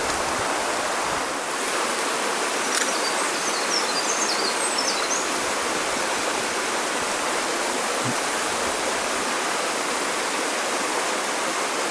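Small mountain stream rushing over rocks: a steady, even rush of water.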